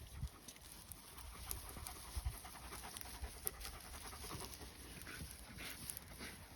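Akbaş shepherd dog panting, with quick faint breaths.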